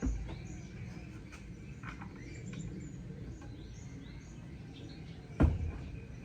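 Birds chirping on and off, with a thump right at the start and a much louder sharp knock about five seconds in.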